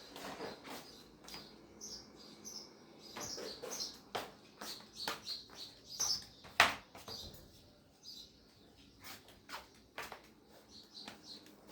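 Faint, scattered high chirping of small birds, mixed with irregular clicks and knocks; a sharp click about six and a half seconds in is the loudest sound.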